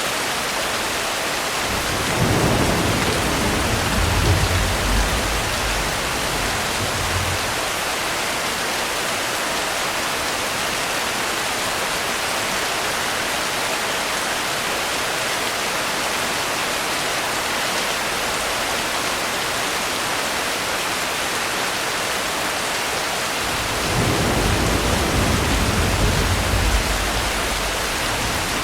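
Steady rain with two low rolls of thunder: one from about two seconds in lasting some five seconds, and another near the end.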